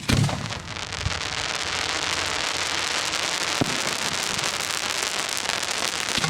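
Fireworks display: a shell bursts with a deep boom just after the start, followed by a dense, steady crackling that lasts several seconds, with a couple of sharper pops within it.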